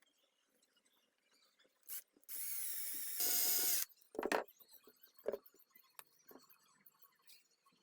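A small power tool runs for about a second and a half, getting louder partway through, followed by a few separate clicks about a second apart.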